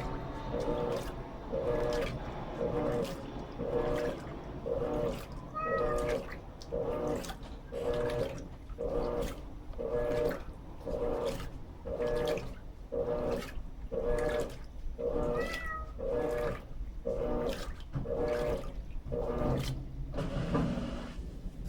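Electrolux LT13B top-load washing machine agitating: the agitator motor turns back and forth about once a second, each stroke a short hum with water swishing in the tub.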